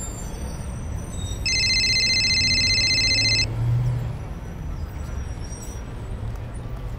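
Smartphone ringing: a rapidly trilling electronic ring tone sounds for about two seconds, then cuts off. A low steady hum runs underneath.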